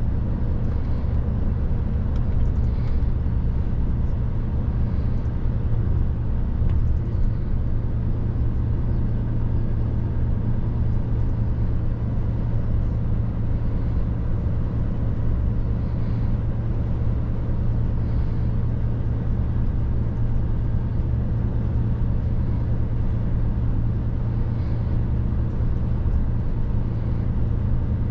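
Mercedes truck's diesel engine running steadily under way, a constant low drone with road noise, no gear change or other sudden event.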